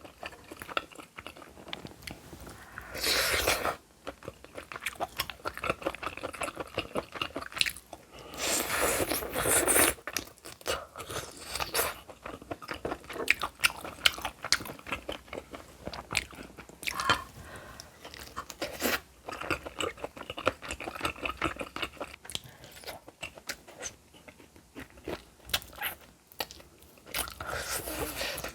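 A person chewing and crunching food, with a run of small wet clicks and louder crunchy stretches about three seconds in, from about eight to ten seconds in, and again near the end.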